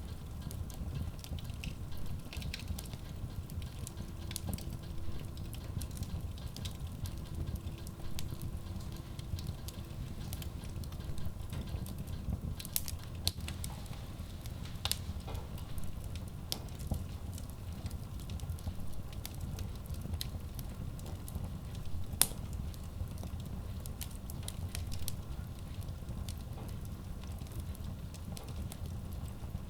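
Wood logs burning in a Kratki Koza K6 stove-fireplace: a steady low rumble of flame with scattered sharp crackles and pops, the loudest about 22 seconds in.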